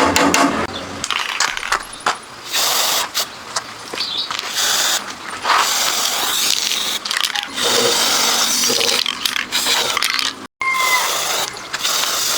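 Workshop repair noises: a busy run of metallic clicks and scrapes with stretches of hissing, broken by a sudden brief cut-out near the end.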